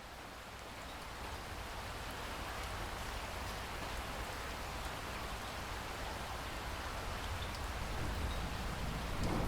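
Steady rainfall on a surface, an even hiss with scattered individual drop ticks, swelling gradually in level over the first few seconds.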